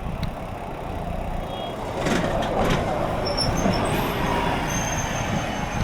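Road traffic heard from a moving bicycle, with a motor vehicle going by and growing louder from about two seconds in, over a steady wind rumble on the microphone.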